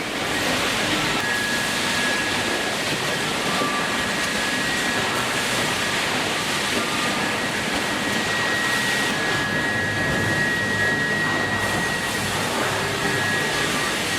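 Sawmill machinery running steadily: a dense, even mechanical noise with a thin high whine running through it.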